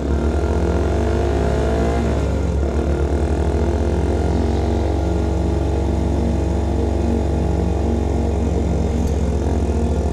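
A CFMOTO Papio SS small-displacement motorcycle running through a KO Lightning slip-on exhaust while being ridden. The engine note rises over the first two seconds and drops sharply, as at a gear change. It then climbs again, holds fairly steady, and dips briefly near the end.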